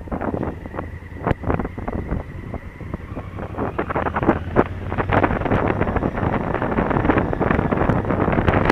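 Wind buffeting an action camera's microphone on a moving motorcycle, with the Honda Africa Twin CRF1000L's parallel-twin engine running underneath. The wind noise grows louder about halfway through.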